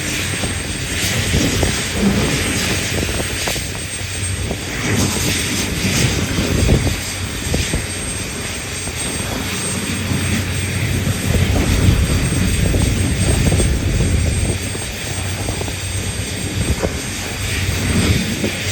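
Large diesel engines of heavy mining machinery running: a deep steady drone that swells and eases every few seconds.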